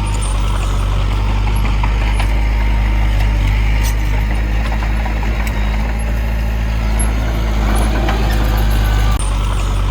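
Heavy diesel machinery running steadily, a constant low engine hum with scattered metallic clicks and rattles.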